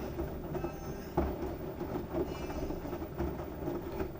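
LG washing machine running with a load of wet towels: a steady rumble with an occasional heavy thump from the load, about a second in and again about three seconds in.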